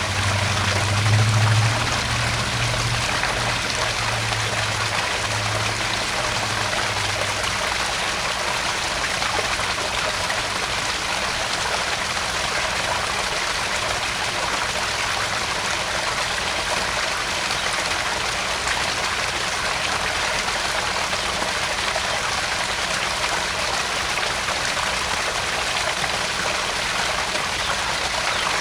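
Small garden pond waterfall, water splashing and trickling steadily into the pond. A low rumble sits under it for the first several seconds, then fades out.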